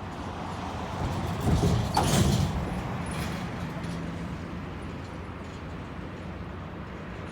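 A motor vehicle passing close by over a steady outdoor background hum. It swells and falls in pitch between about one and a half and two and a half seconds in, then fades.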